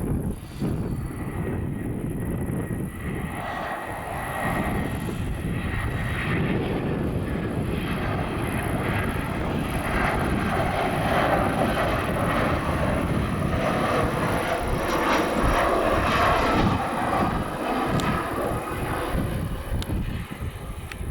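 Airliner passing close by, its engine noise swelling to a peak about two-thirds of the way through and easing off near the end.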